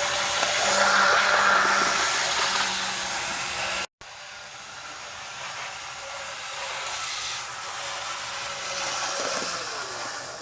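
HO-scale Athearn diesel locomotive with a brass-flywheel motor running along the track, a steady whirring rattle of motor and wheels with a brief dropout about four seconds in. Near the end it drops in pitch and fades as the powered-down locomotive coasts on its flywheels.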